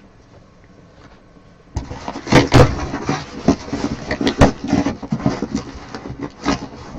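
A trading-card box and its packs being handled and opened: irregular rustling, crinkling and small knocks of cardboard and plastic wrapping. It starts about two seconds in, after a quiet moment.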